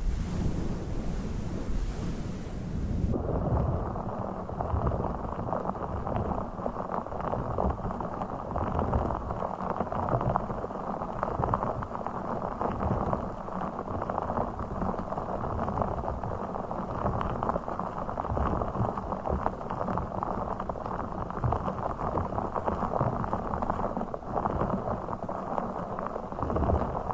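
Close-miked ASMR handling sounds. For about the first three seconds there is bright, airy rustling from the fluffy microphone cover. Then the sound switches to a dense, muffled crackling and rubbing from a blue fish-shaped object worked against the microphone.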